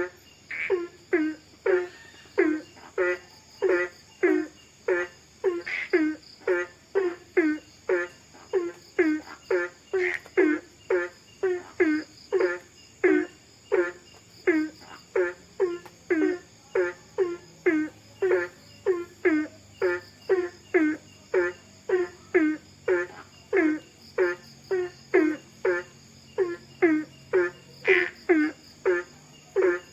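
An animal call repeated steadily about twice a second, each a short note falling in pitch, over a steady high insect chorus.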